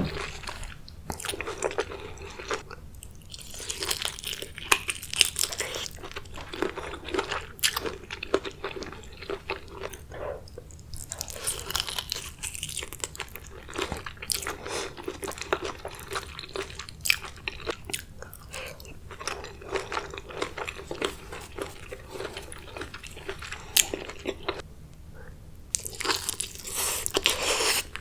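Close-miked eating of a spicy king crab seafood boil: wet biting and chewing with crunching and sharp cracks scattered throughout.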